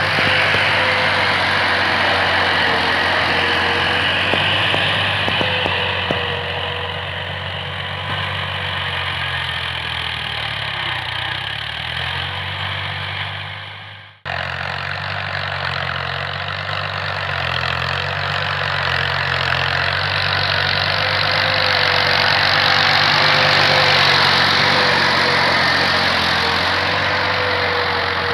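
New Holland Ghazi tractor's diesel engine running steadily while working a field with a cultivator. The sound cuts out abruptly about halfway through and comes straight back.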